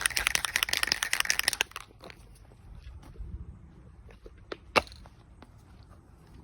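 Aerosol can of metallic spray paint being shaken, its mixing ball rattling fast for the first couple of seconds. Then a few quieter clicks and one sharp click a little before five seconds in.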